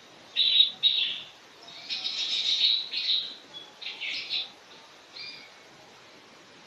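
Small birds chirping in a run of short, high calls, busiest about two to three seconds in and dying away after about five seconds.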